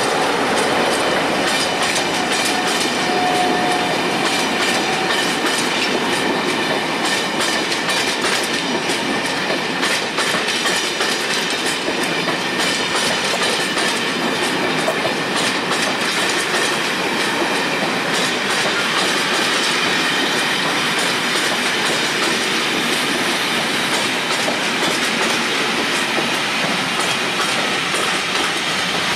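Train headed by Class 47 diesel 47805 and steam locomotive 46100 Royal Scot pulling into the station. Its wheels rumble and clatter over the rail joints throughout, with a faint brief squeal a few seconds in.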